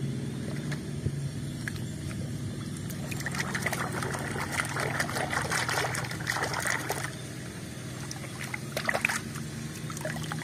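Water sloshing and splashing in a plastic bucket as a hand swishes through it, busiest from about three to seven seconds in, with a short splash near the end as a toy is lifted out dripping. A steady low hum runs underneath.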